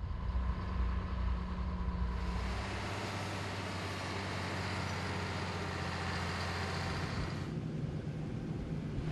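Heavy road-construction vehicles running with a steady engine drone, the sound changing abruptly about two and a half seconds in and again near the end.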